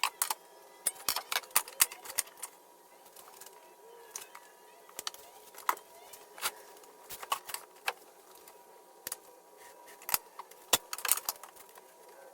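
Scattered sharp clicks and light clatter at an irregular pace, as of tools and pieces of wood being handled, over a faint steady high tone; no saw is running.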